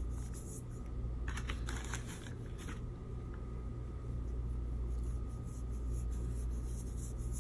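Ground cinnamon being shaken from a spice shaker over food: soft, fine crackling and rattling in two spells, over a steady low hum.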